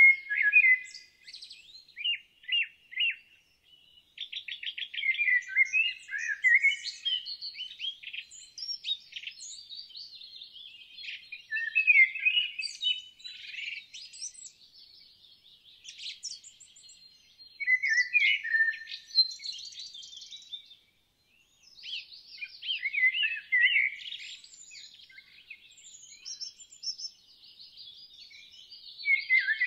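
Songbirds singing: chirps, fast trills and quick sweeping phrases in bursts with short pauses between them.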